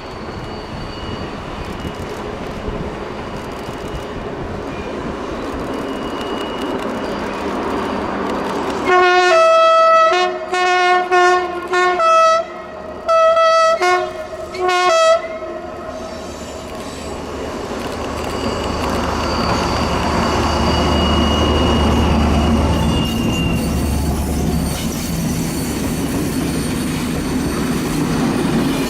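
Pair of SNCF BB 67000-class diesel locomotives sounding their horns in a string of about six short blasts, a third of the way in. Around the horn there is a steady train rumble, and a low diesel engine drone grows louder as the locomotives come close.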